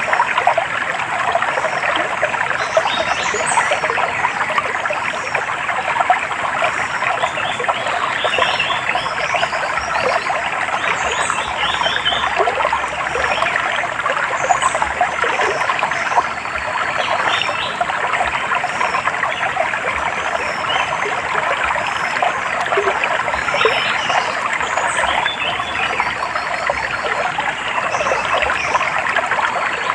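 Running water trickling and babbling steadily, with small birds chirping now and then.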